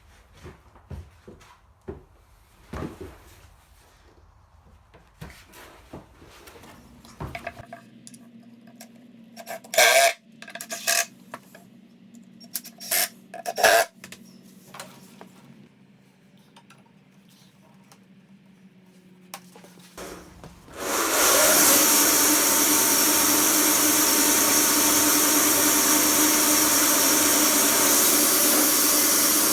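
Scattered knocks, clicks and clattering of wood and tools being handled at the sawmill. About two-thirds of the way in, the sawmill's motor starts abruptly and then runs steadily and loudly.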